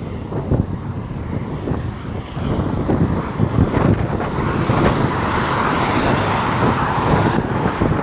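A road vehicle passing on the highway, its tyre and engine noise swelling from about halfway through and fading near the end, over wind buffeting the microphone.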